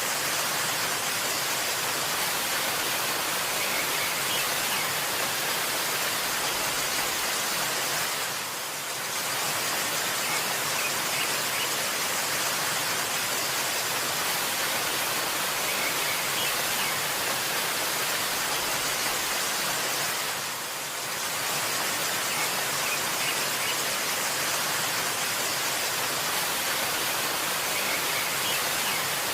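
Waterfall rushing in a steady, dense hiss, briefly dipping in level twice, with a few faint high bird chirps over it.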